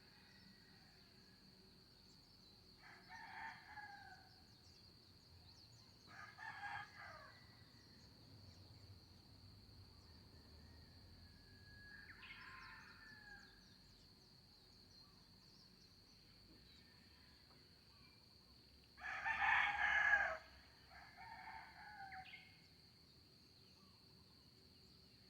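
Roosters crowing several times, some crows fainter and farther off, the loudest about 19 seconds in, over a steady high insect drone.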